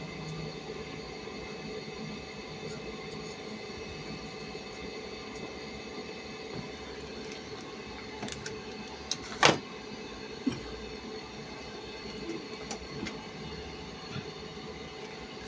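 A steady machine hum made of several fixed tones, with a few sharp clicks; the loudest click comes about nine and a half seconds in.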